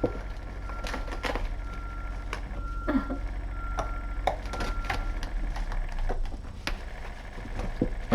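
Kittens playing with toys: scattered light clicks and taps, over a low steady hum. A short high beep-like tone repeats in broken dashes for the first five seconds or so.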